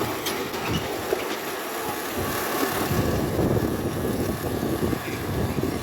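Miniature live-steam locomotive running along the track with its train.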